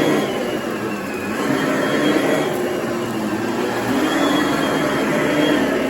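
2008 Oreck XL21 upright vacuum cleaner running on a thick frieze rug, its motor pitch sagging and recovering twice as it bogs down on the rug.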